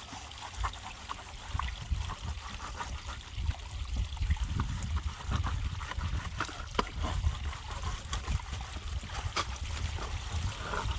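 Water trickling steadily from a garden pond's water feature, with scattered light clicks and a low rumble underneath that grows from about a second and a half in.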